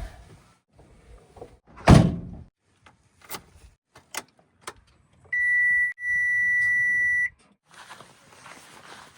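A heavy thud, then a few sharp clicks, then a steady high-pitched beep lasting about two seconds with a brief break in it.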